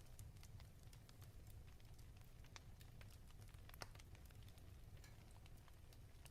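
Faint fireplace crackling: sparse, irregular small pops and snaps from burning wood over a low, steady rumble.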